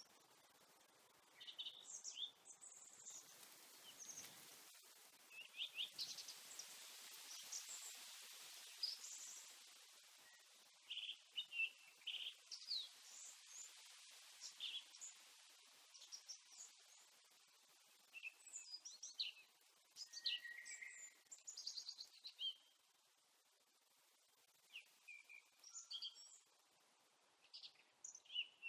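Small birds chirping and calling in short bursts throughout, over quiet outdoor background hiss that swells into a soft rushing noise during the first ten seconds.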